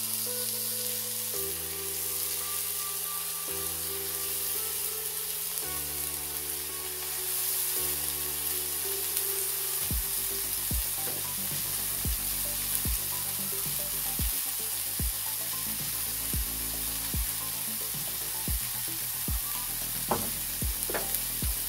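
Raw hamburger patties sizzling in avocado oil in a hot cast iron skillet on medium-high heat, a steady frying hiss. Background music plays under it, held chords at first, then a soft regular beat from about halfway.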